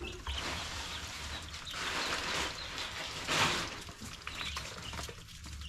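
Rustling and scraping noises that swell twice, about two seconds and three and a half seconds in, over a low steady hum.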